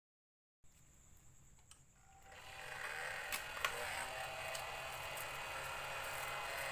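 Hair dryer's small DC fan motor, powered straight from a 12 V adapter as a test, spinning up about two seconds in and then running steadily with a whirring whine. There are a couple of brief clicks as it comes up to speed.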